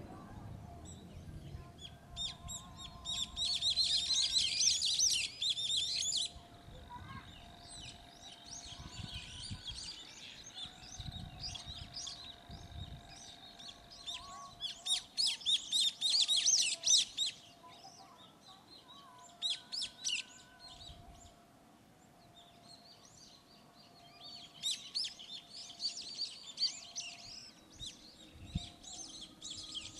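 Birds chirping and chattering in short, dense bursts every few seconds, with quieter gaps between.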